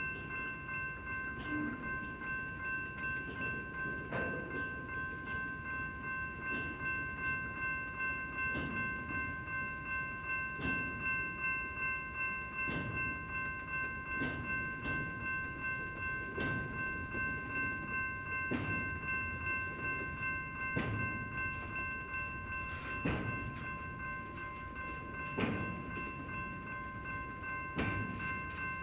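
BNSF intermodal freight train's container cars rolling past slowly, the wheels clacking over a rail joint about every two seconds. A steady high whine of several tones is held throughout.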